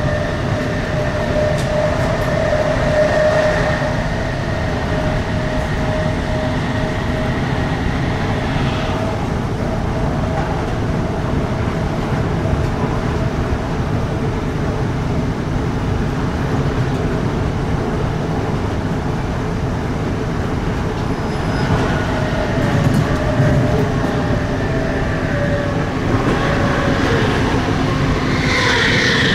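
Inside a British Rail Class 455 electric multiple unit running at speed: a steady rumble of wheels on track with a steady whine over it. Near the end, another train passing close alongside adds a louder rushing sound.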